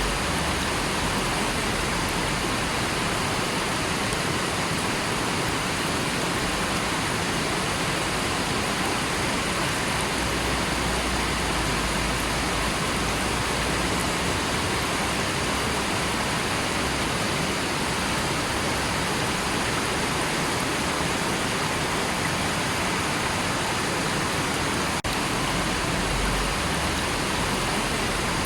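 River water rushing in a steady, even wash, with one momentary dip in level near the end.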